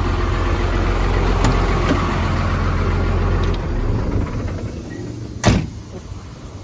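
1994 Freightliner boom truck's diesel engine idling, then shut off about four seconds in, its low rumble dying away. A single sharp knock follows a second or so later.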